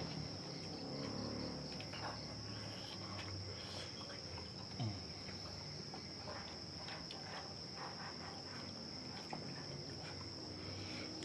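Steady high-pitched chirring of insects, such as crickets, with faint chewing and small clicks of people eating.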